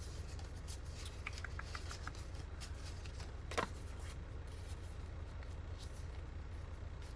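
Paper journaling cards and scraps being handled and sorted on a desk: light rustles and small ticks, with one short, louder scrape a little past halfway, over a steady low hum.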